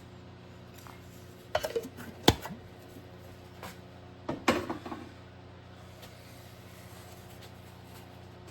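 Metal objects clattering as they are handled and set down on a hard surface: two short bursts of clinks and knocks, the first with one sharp knock about two seconds in, the second about four and a half seconds in.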